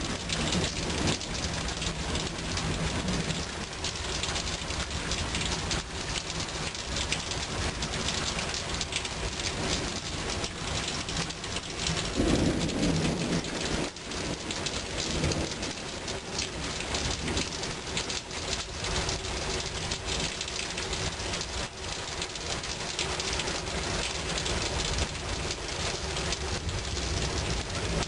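Rain pouring steadily during a thunderstorm, with a low rumble of thunder swelling about twelve seconds in and again briefly a few seconds later.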